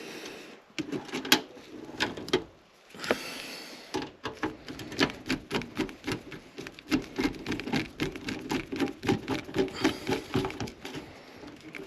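Hand work on a fan housing and its fittings: a run of quick clicks and knocks. From about four seconds in they come fairly evenly at about three to four a second.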